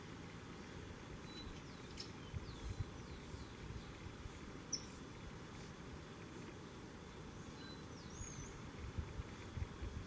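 Steady faint background hiss with a few short, high bird chirps scattered through, one a quick up-and-down call near the end. A few low thumps come around two and a half seconds in and again near the end.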